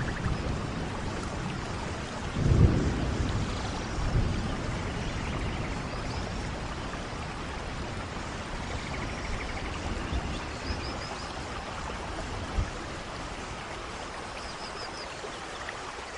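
Steady rain falling, with low thunder rumbling about two and a half seconds in and again briefly near four seconds, then fading under the rain.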